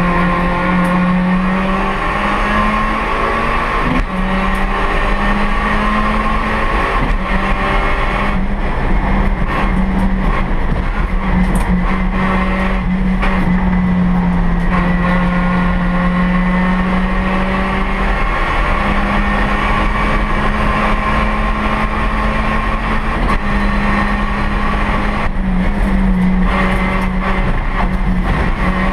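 A Honda Brio race car's 1.2-litre four-cylinder i-VTEC engine (L12B) with a racing exhaust, heard from inside the cockpit under hard driving. The engine note rises and falls in steps with the throttle and gear changes, over steady road and tyre noise.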